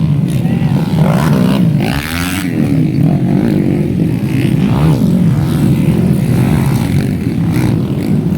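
Underbone motorcycles racing, their engines running hard, with the pitch sliding up and down as bikes rev and pass.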